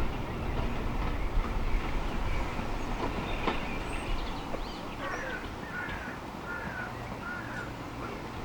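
Heritage train running past, a low rumble slowly fading away. A bird chirps four times in the second half.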